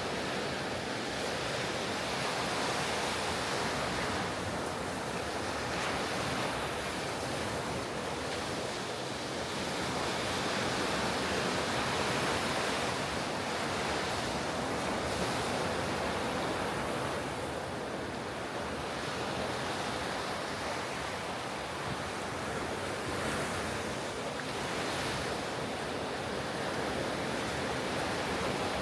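Ocean surf breaking on a beach: a continuous wash of waves that swells and eases every few seconds, with some wind noise on the microphone.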